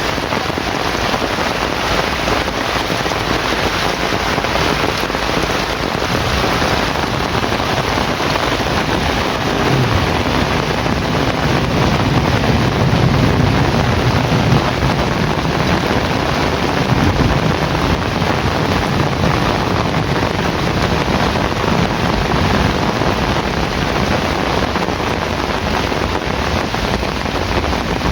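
Heavy rain falling steadily, with a low rumble of thunder from about ten seconds in that fades out by about eighteen seconds.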